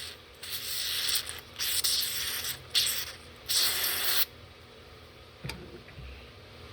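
Aerosol spray can sprayed onto the cleaned pulley bearings in four short hissing bursts, followed by a single click about five and a half seconds in.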